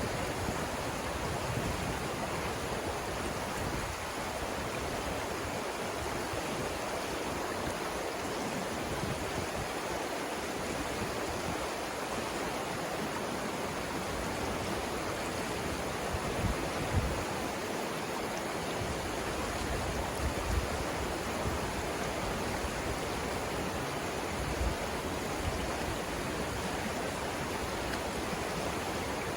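Savannah River rapids rushing in a steady, even wash of water. A few brief low bumps come past the middle.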